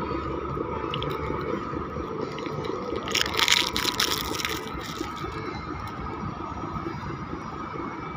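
A boat engine running steadily over the sound of water, with a louder rushing hiss about three seconds in that lasts about a second and a half.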